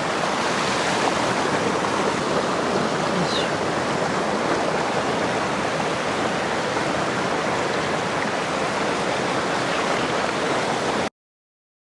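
Mountain stream running: a steady rush of flowing water, cutting off abruptly near the end.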